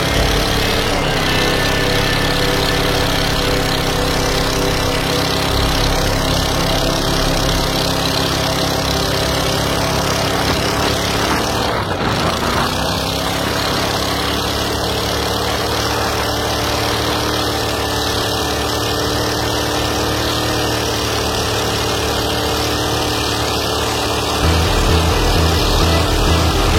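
Subaru EX40 404 cc 14 hp single-cylinder petrol boat engine running steadily on a test run, with a brief waver in its pitch about halfway through.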